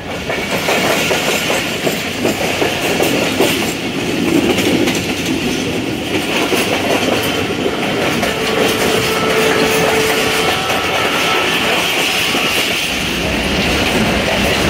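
Passenger train coach running along the track, heard through the open vestibule door: loud, steady wheel and rail noise. A short faint steady tone sounds about eight seconds in.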